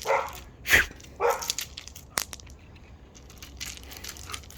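Crunching on rocks and gravel: three short crunches in the first second and a half, then a sharp crack about two seconds in, followed by faint scattered ticks.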